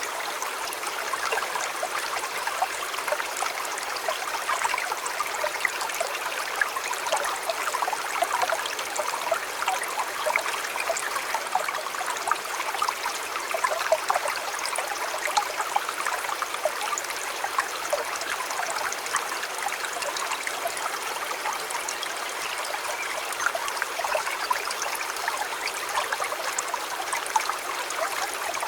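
Shallow river or stream flowing steadily, a continuous rushing and babbling of water with many small splashes and trickles.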